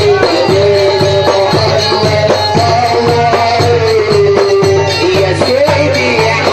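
Live Port Said simsimiyya folk band playing: a wavering, sustained melody over a steady, fast beat of hand percussion and rattles.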